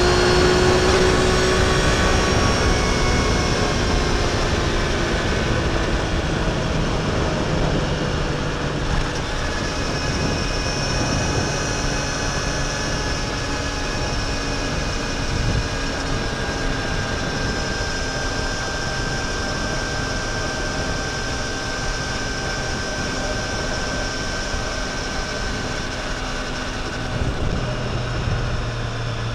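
A 2025 Triumph Tiger Sport 800's three-cylinder engine and exhaust on the move, with the revs easing off early and then holding nearly steady at a cruise. A dense, steady rush of wind and road noise runs under it, and a low hum comes in near the end.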